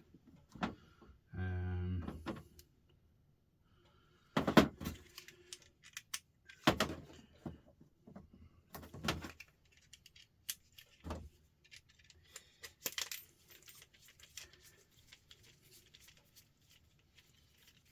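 Small metal screwdriver security bits clinking and rattling as they are handled and sorted, with sharper metal-on-metal clicks and knocks. The louder knocks come about every two seconds, then lighter rapid clicking. There is a brief hummed voice near the start.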